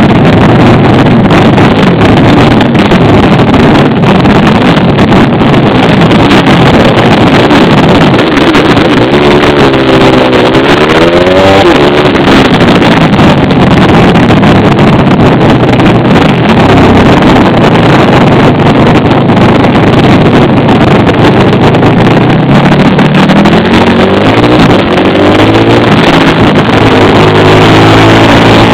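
Pit bike engine running very loud over a dense rushing noise. Its pitch climbs and falls as it revs, about a third of the way in and again from near the end.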